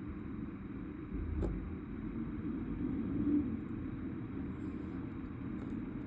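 Garbage truck engine running with a steady low rumble, with a single short click about a second and a half in.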